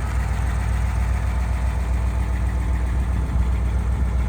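1957 Ford Thunderbird's 312 cubic-inch V8 idling steadily, running smoothly as it should.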